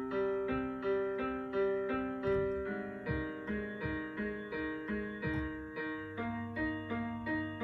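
Piano keyboard playing a simple, slow melody in evenly spaced notes, about two a second, with a low bass note joining about six seconds in.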